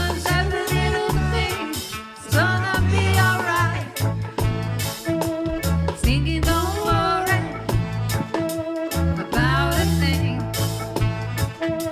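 A live band playing a reggae song, with a singer's voice over a bouncing bass line and drums.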